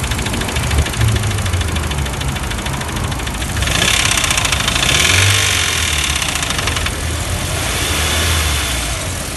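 Volkswagen Passat B5's 1.8-litre turbocharged four-cylinder (ATW) engine running with a fast, even knock. The engine is briefly revved, louder, about four seconds in, then settles again. The knock is the fault the owner is recording.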